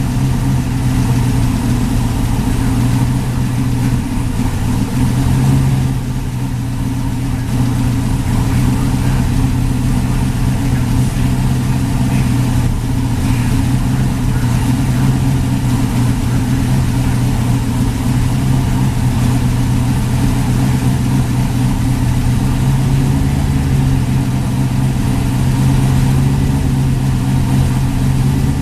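Twin-turbocharged LSx 402 V8 in a 1970 Chevelle idling steadily on its first startup, with a slight dip in level about six seconds in.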